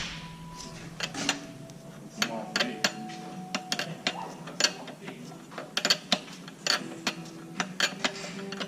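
Metal hand tools clicking and clinking irregularly against metal fittings, with a few brief metallic rings.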